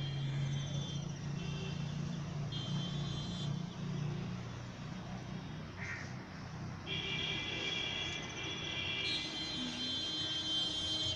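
Horns sounding repeatedly in long, steady, high-pitched blasts over a low, continuous traffic rumble.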